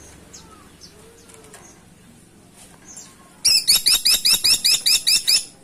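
A Caladi Tikotok woodpecker calling a fast, loud rattling series of about a dozen sharp notes, roughly six a second, starting about three and a half seconds in. Faint scattered chirps come before it.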